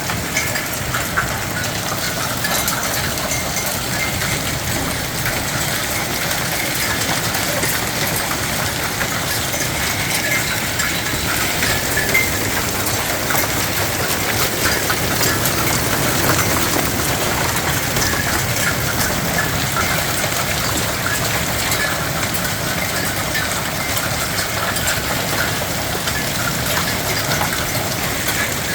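Hailstones pelting down: a steady dense wash of countless small ticks and clatters.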